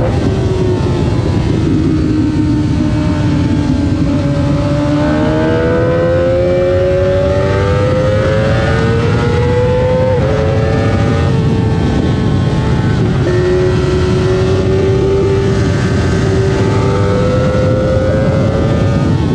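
Kawasaki ZX-25R's 250 cc inline-four engine heard onboard at speed on a racetrack, its note climbing under acceleration, dropping abruptly about ten seconds in and again a few seconds later at upshifts, then climbing again. A steady wind rush runs underneath.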